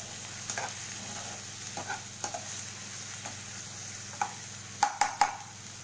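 Chopped onions and green chillies sizzling in hot oil in a kadai as a metal spatula stirs and scrapes them, with a few louder knocks of the spatula against the pan about five seconds in. The onions are being sautéed until golden.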